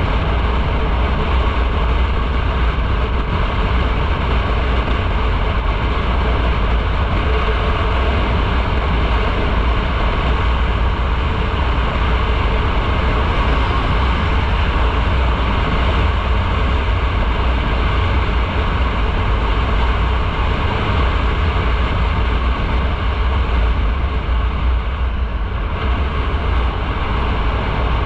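Motorcycle riding along at a steady speed: engine, road and wind noise, with a heavy steady low rumble under a broad hiss.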